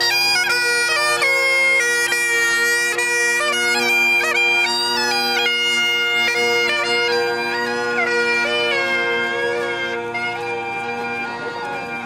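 Bagpipes playing a tune, the melody moving over steady held drones, growing a little quieter near the end.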